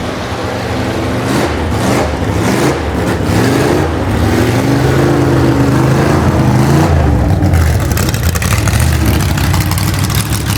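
A loud car engine being revved: its pitch climbs and drops several times, then it settles into a steady, rough low running note.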